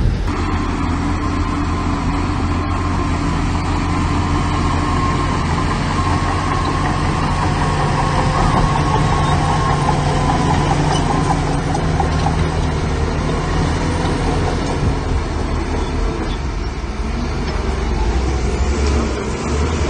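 Heavy diesel construction machinery running steadily, engines holding a low drone.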